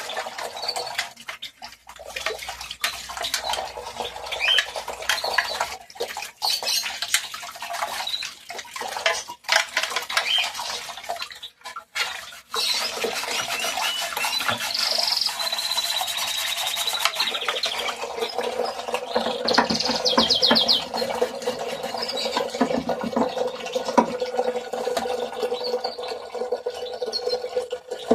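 Stiff brush scrubbing grime off washing machine parts, with water splashing; the sound turns steadier and more watery about halfway through. Birds call in the background.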